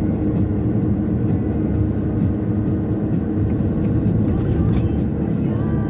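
Steady road noise of a moving car with music playing over it, the music carrying a quick, regular beat.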